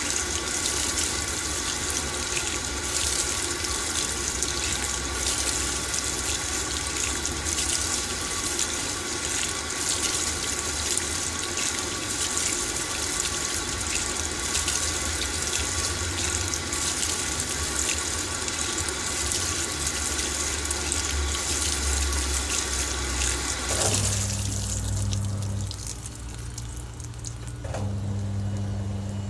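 LG TurboDrum top-load washing machine filling with water, a steady rush that stops about 24 seconds in. The drum motor then hums in three short spells of a second or two each as the drum starts to turn.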